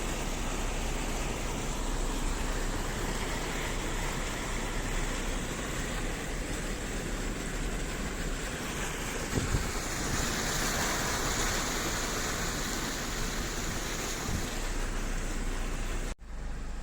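Fast-flowing floodwater, a steady rushing noise that swells a little about ten seconds in.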